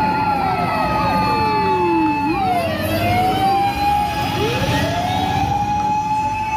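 Electronic fire-truck siren wailing: a held tone slides slowly down and back up, with more siren tones overlapping it.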